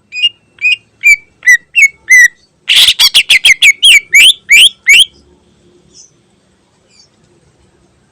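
Cucak ijo (green leafbird) singing: first a series of loud, separate sliding notes, then a fast run of about ten sharp notes at roughly four a second that stops about five seconds in.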